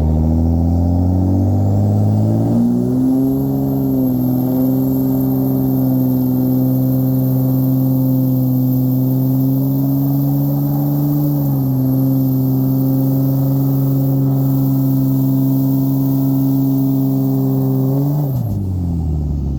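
A truck engine revs up over the first few seconds and is held at high revs for about fifteen seconds, with a thin high whine over it. The revs dip briefly once about halfway through, then drop away near the end.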